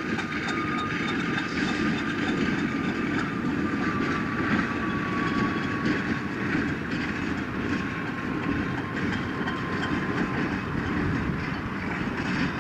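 A train running on the rails: a steady rumble with the click of wheels, and a thin high tone sliding slowly lower.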